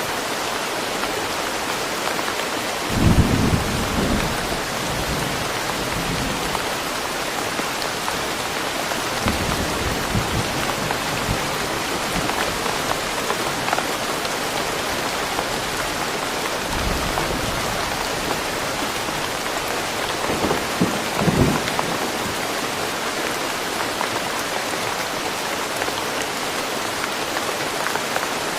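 Steady heavy rain falling in a forest, with low rumbles of thunder swelling briefly about three seconds in and again around twenty-one seconds.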